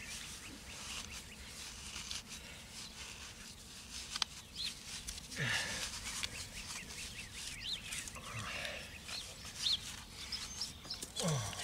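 Quiet outdoor ambience with a few short bird chirps scattered through it, and two brief low sounds about five and eleven seconds in.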